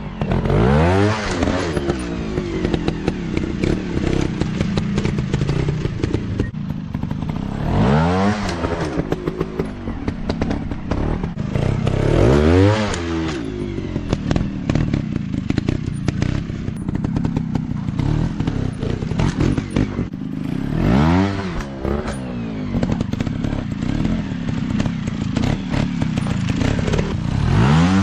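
Off-road dirt bike engines running on a trail, revved up in about five bursts that each rise and fall in pitch, with a dense clatter and knocking throughout.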